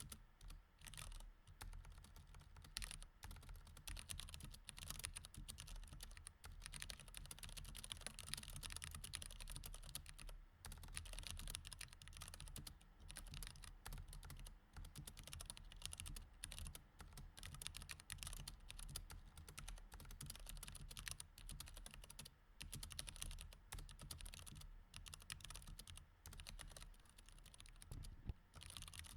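Mechanical keyboard with Cherry MX Red switches being typed on steadily, a dense run of soft key clicks broken by brief pauses, over a faint low hum.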